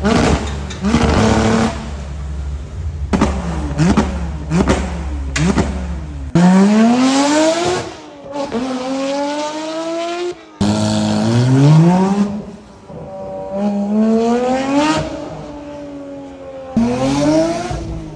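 Porsche 911 GT3 (992.2) naturally aspirated flat-six through a JCR aftermarket exhaust: a series of quick rev blips, then several long revs that climb high in pitch and fall away.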